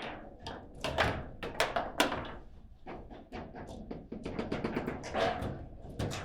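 Table football play: a rapid, irregular run of sharp knocks as the ball is struck by the rod figures and bounces about the table. The loudest knocks come about one and two seconds in.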